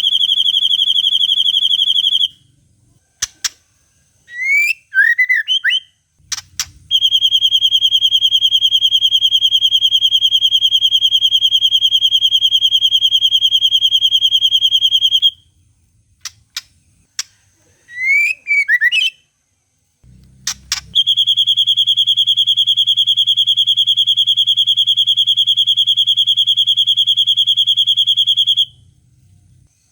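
White-rumped shama song: long, rapid machine-gun trills held at one high pitch for about eight seconds each, twice, alternating with short warbled phrases and a few sharp clicks.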